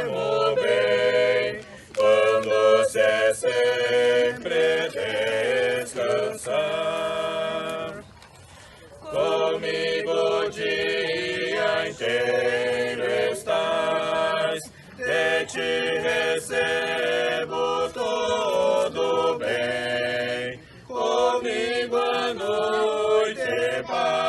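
A group of voices singing a slow hymn in Portuguese together, with a short pause between lines about eight seconds in.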